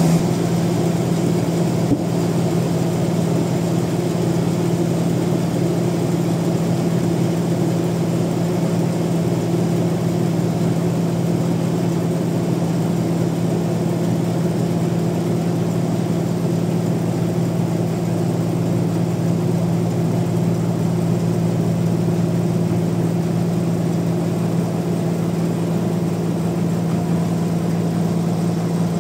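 Sawmill machinery running at a steady pitch: a constant droning hum that never changes speed, with a single brief tick about two seconds in.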